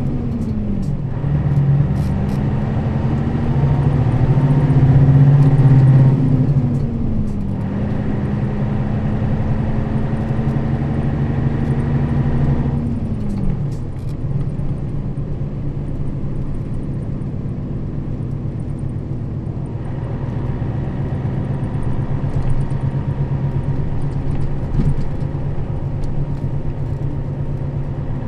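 Nissan Diesel KL-RA552RBN route bus's diesel engine under way, its pitch climbing and dropping with gear changes about one and seven seconds in, then falling away near the middle and settling to a steady lower drone.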